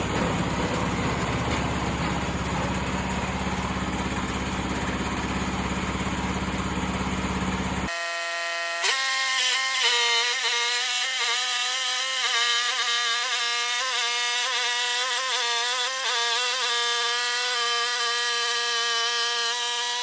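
Portable sawmill running: a steady, noisy engine-and-blade drone, then, after an abrupt change about eight seconds in, a steady pitched whine with a slight waver.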